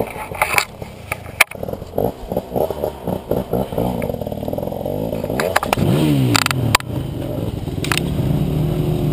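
Dirt bike engine running with an even low chug, then revving up and down a few times before settling into a steady run. Sharp knocks and clatter sound over it now and then.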